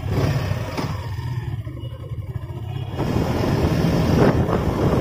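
Suzuki Gixxer SF motorcycle engine running as the bike pulls away and picks up speed, with wind rushing over the microphone that builds from about three seconds in.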